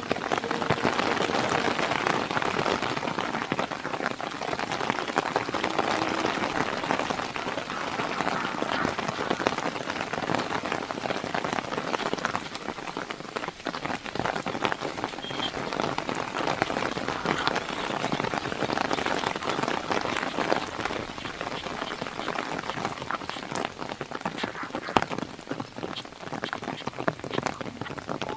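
Heavy monsoon rain hitting a moving car's windshield and roof, a dense, steady patter of countless drops that eases slightly near the end.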